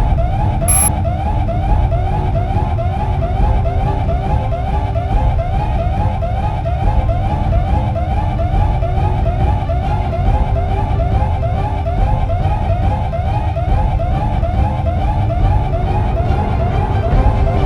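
Electronic emergency alarm siren sounding continuously for an earthquake drill, a fast whooping tone that repeats about three rising sweeps a second, over a steady low rumble. A single sharp click comes about a second in.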